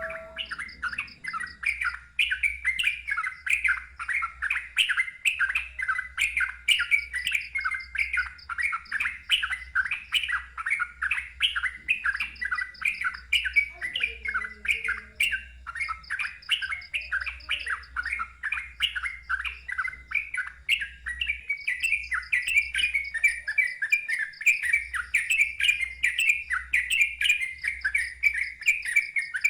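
Sooty-headed bulbul singing a rapid, unbroken string of short, loud, down-slurred notes, about three a second, with a faint high-pitched trill repeating above it.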